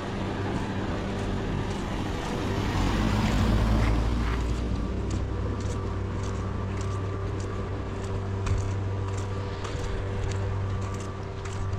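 A vehicle passing on a wet street, its noise swelling and fading about three to four seconds in, over a steady low engine hum; scattered light ticks follow.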